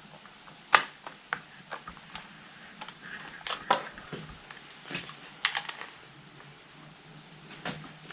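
Irregular clicks and knocks of hand tools and parts at the end of a Suzuki DR650's handlebar as the handguard clamp is undone. The sharpest knock comes about a second in.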